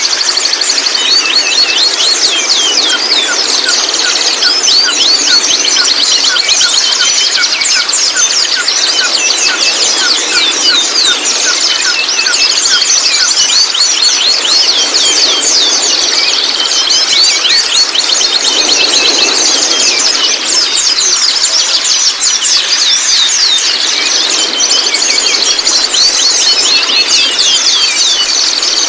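Juvenile white-rumped shama (murai batu) twittering: a continuous, dense stream of fast, short high chirps and twitters, the babbling song of a young shama used as lure audio to get other young shamas singing.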